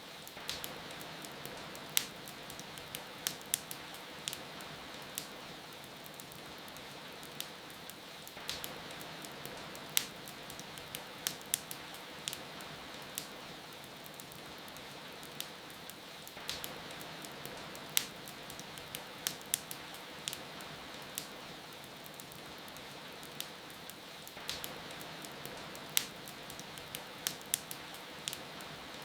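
Steady rain hiss with a wood fire crackling over it, sharp pops coming in small bunches. The same stretch of sound repeats about every eight seconds.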